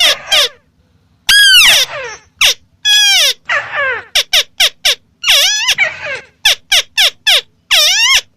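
White-browed crake calling: a rapid series of loud, nasal arching notes, each rising and then falling in pitch, given in clusters with brief pauses between them.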